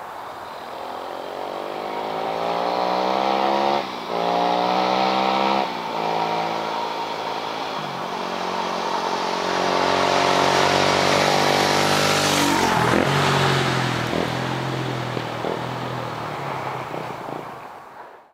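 Kawasaki KLX250S single-cylinder four-stroke engine through an FMF Q4 muffler and Powerbomb header, accelerating through the gears with two brief breaks for upshifts. It passes by with a sudden drop in pitch, then fades away.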